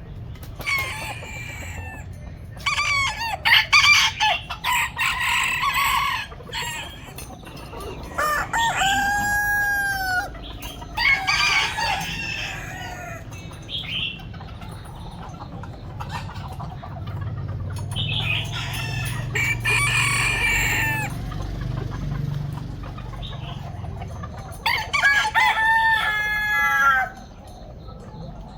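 Chickens calling: a rooster crowing several times, the calls coming in about four separate bouts, with clucking between them over a steady low rumble.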